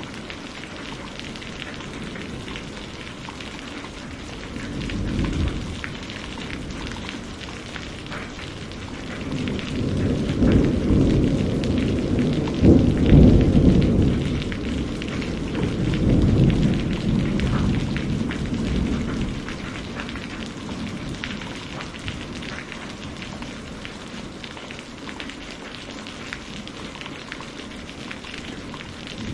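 Steady rain falling with rolling thunder. A short rumble comes about five seconds in, then a long, louder rumble builds and fades over about ten seconds in the middle.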